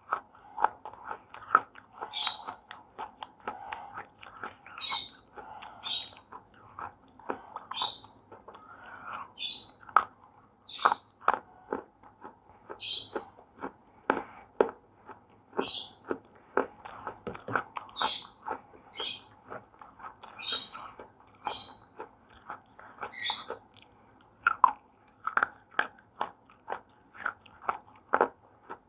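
Slate pencils being bitten and chewed close up: a steady run of sharp, brittle crunches and crackles, several a second, with louder bites every second or so.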